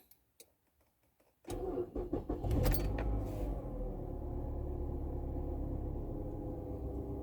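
Mazda Atenza's engine being started: after a short near-silence the starter cranks and the engine catches about a second and a half in, then settles into a steady idle.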